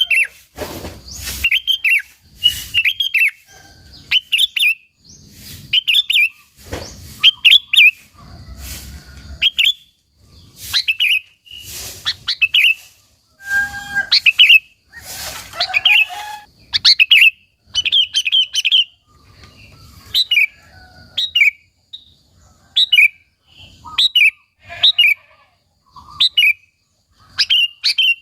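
Sooty-headed bulbul song: short, bubbling whistled phrases about once a second, with brief pauses between them.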